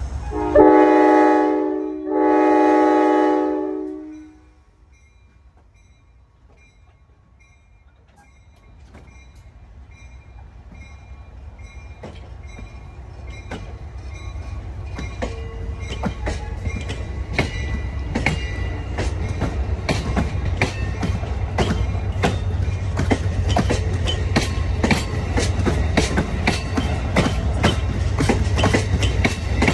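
Amtrak Downeaster passenger train sounding two long blasts on its air horn, the signal that it is about to move off. After a short lull, its wheels start clicking over the rail joints, getting faster and louder as the train picks up speed past the platform.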